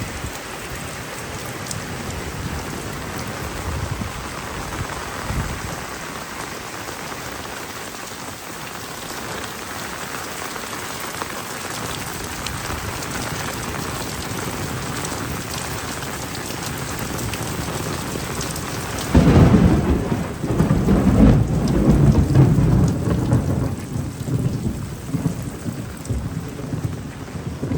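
Heavy rain falling steadily. About two-thirds of the way through, a loud thunderclap breaks suddenly and rumbles on for several seconds over the rain.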